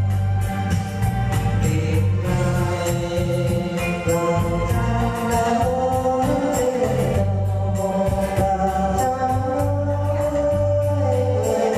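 Music played on an electronic keyboard with an organ sound, over a steady bass line and a regular beat.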